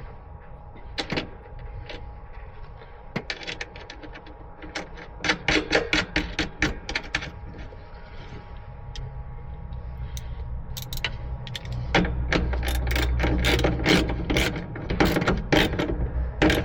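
Hand tools clicking and ratcheting in quick runs, with metallic knocks, as battery cables are worked on; a low rumble grows louder in the second half.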